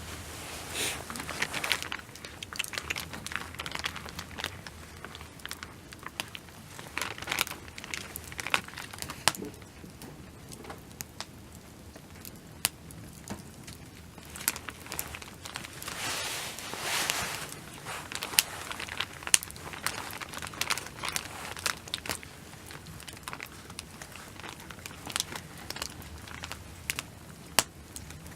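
Crinkling and rustling of plastic or paper packaging being handled, in swells with many small clicks and taps.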